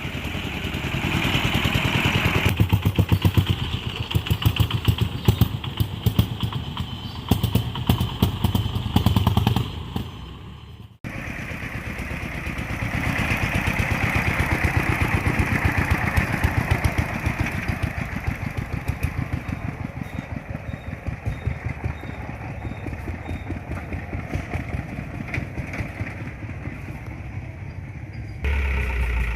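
A vehicle engine running with a fast, even firing pulse. It fades and cuts off abruptly about eleven seconds in, then runs on. A deeper hum joins near the end.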